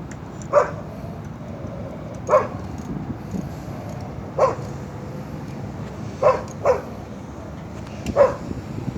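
Dog barking six times, single short barks spaced a second or two apart with a quick double bark past the middle, over a steady low hum.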